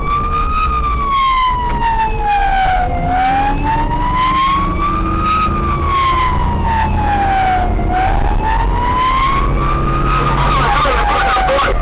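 Police siren in a slow wail, its pitch rising and falling about every five seconds, over steady engine and road noise.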